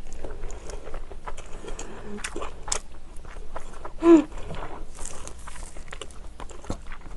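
Close-miked chewing of a mouthful of kimchi-braised pork rib, with many small wet mouth clicks and smacks. About four seconds in there is a short hummed "mm" that falls in pitch.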